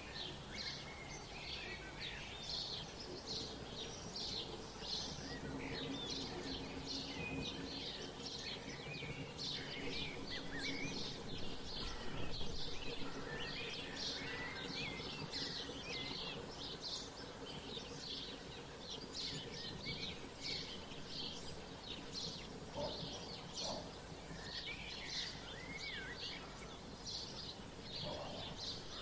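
Several songbirds chirping and twittering, with many short high chirps in quick succession and some sweeping calls mixed in, over a steady low background hum.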